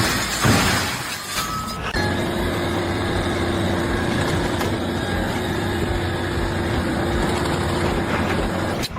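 An engine or machine running steadily with a low hum. It comes in abruptly about two seconds in after a shorter, noisier stretch.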